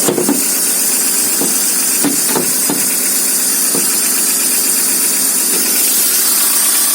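VW Golf MK4 1.4 petrol engine idling just after a cold start, with a light tappety ticking that is expected to go once it warms up. A few brief knocks sound over the idle in the first four seconds.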